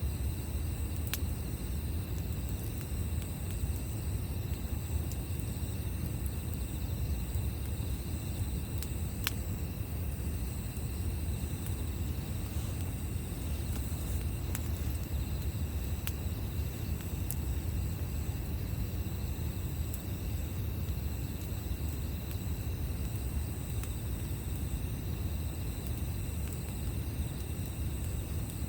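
Campfire with a few sharp, isolated crackles over a steady low rumble, with insects chirring continuously in the background.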